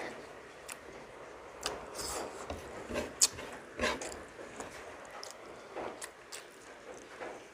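Close-up eating sounds: chewing and mouth noises with scattered soft clicks.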